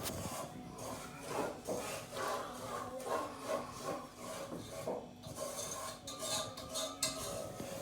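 Repeated scraping and rubbing strokes at an irregular pace, about one a second.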